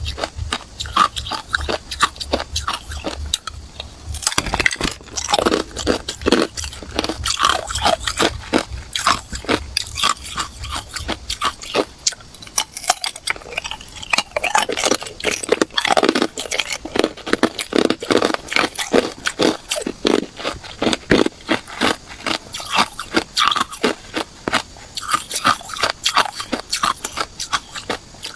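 A person biting and chewing hard ice cubes: rapid, continuous crunching and cracking.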